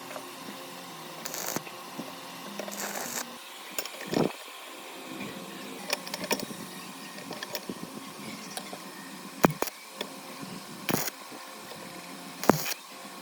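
Workshop handling noises: scattered sharp clicks and knocks of tools and metal parts being handled, with two short hissing bursts in the first few seconds.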